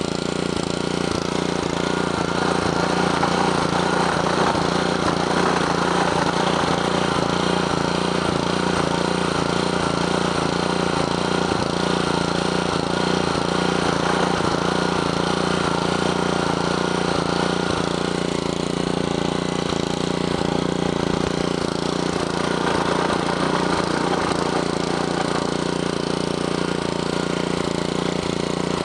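Honda GC160 160cc single-cylinder four-stroke engine running steadily on the small amount of fuel left in it after the tank was drained.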